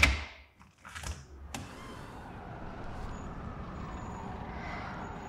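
Door sound effects: a heavy door clunks at the start and again about a second in, then a steady outdoor background of distant traffic starts suddenly about a second and a half in and carries on.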